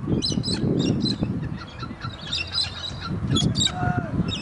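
Birds chirping and squawking, many short calls in quick succession, over a low background rumble.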